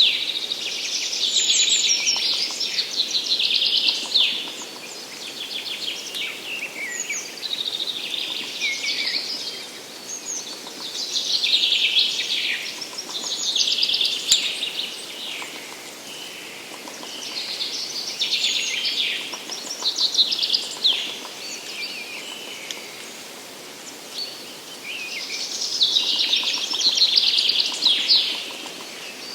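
Songbirds singing in a spring forest: high, quick song phrases of a couple of seconds each, repeated every several seconds, over a faint steady background hiss.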